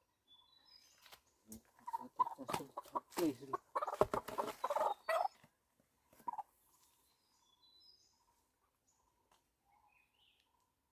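Chicken squawking in a loud burst of a few seconds, mixed with scuffling knocks, as it is being caught.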